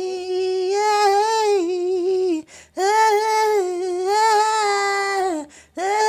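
A high voice singing long, held wordless notes in three phrases of about two seconds each, with a short breath between them; the pitch holds mostly steady with small bends and slides.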